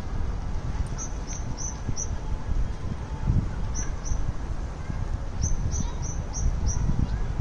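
A small bird calling in runs of quick, short, high chirps, each note dropping slightly in pitch: four in a row, then two, then five. A steady low rumble runs underneath.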